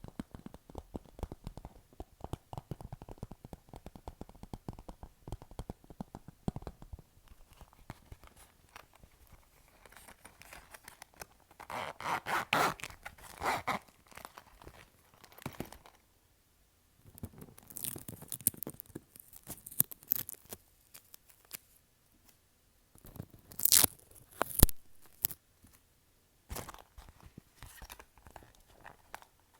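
Fingertips tapping rapidly on a clear plastic pouch, a dense patter of small clicks, then a few louder crackling bursts as the plastic is handled and crinkled. The uploader likens the sound to popcorn popping.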